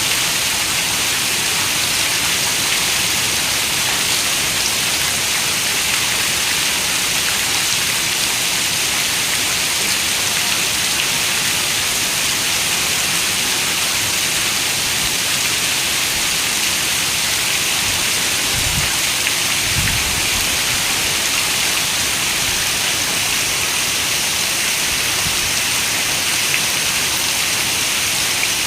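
Steady, even rain hiss with no pauses. A short low rumble comes about two-thirds of the way in.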